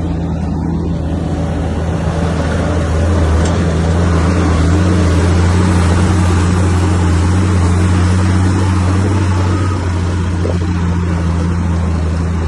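Heavy earthmoving machine's diesel engine running steadily with a deep, even drone, growing a little louder from about three seconds in and easing back near the ten-second mark.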